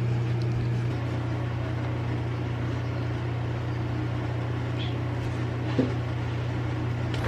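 Steady low hum with faint room noise, and a couple of faint short sounds about five to six seconds in.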